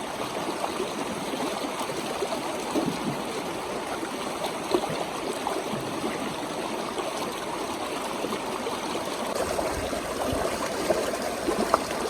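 A stream running with a steady rushing and trickling, with a few brief sharper ticks near the middle and the end.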